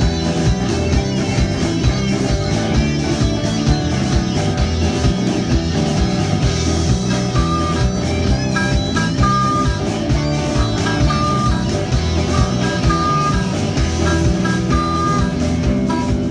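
Live country-blues band playing an instrumental break: guitar over a steady bass rhythm, with short repeated high guitar notes coming in about halfway through.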